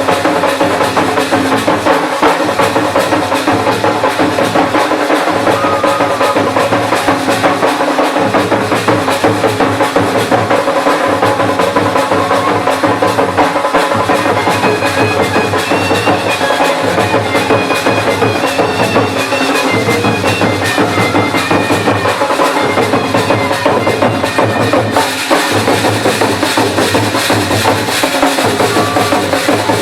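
Traditional Jharkhandi drum band playing: dhak, tasa and nagada drums beat a steady, driving rhythm with jhanjh cymbals, and a shehnai melody runs over them.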